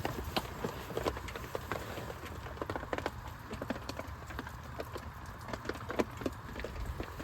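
Heavy rain on a plastic tarp: drops land as irregular sharp taps, several a second, over a steady low hiss.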